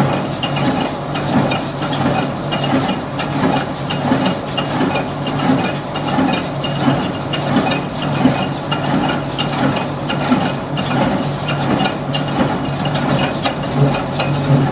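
Steyr 1400a tractor engine running steadily, with a regular mechanical clatter a little more than once a second.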